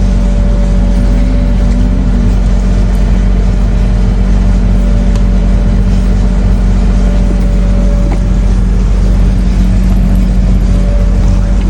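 Ride-on scale locomotive train running, giving a steady hum over a loud low rumble.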